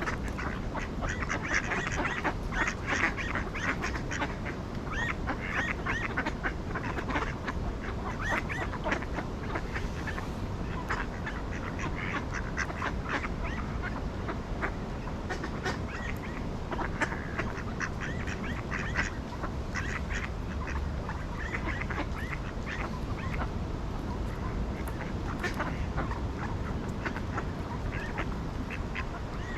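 A flock of ducks quacking and calling, many short calls overlapping without a break.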